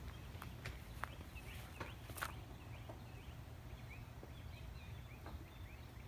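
Quiet yard ambience: small birds chirping again and again over a steady low rumble, with a few light clicks in the first couple of seconds.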